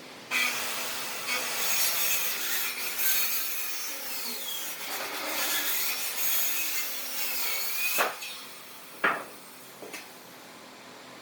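A hand tool scraping and rubbing hard against wood for about eight seconds, then two sharp knocks on wood.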